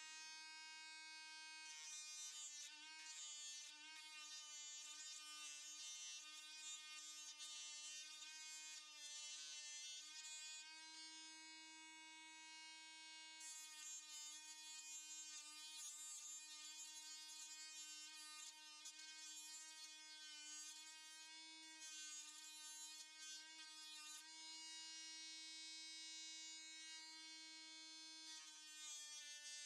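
Faint, steady electric buzz of a small motor-driven power tool running at one speed, its pitch wavering slightly now and then as it grinds a new tip onto a pocketknife blade.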